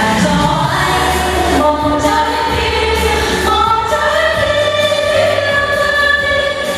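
A vocal trio singing a Vietnamese song together, holding long notes over a backing track with a steady bass.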